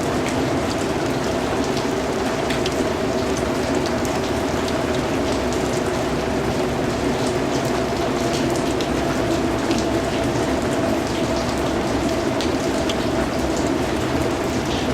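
Steady rain, with many individual drops ticking sharply against a continuous hiss.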